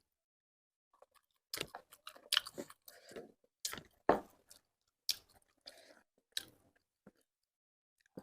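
A person chewing food close to the microphone: a run of short, irregular crunchy bites and mouth sounds, starting about a second and a half in and trailing off near the end.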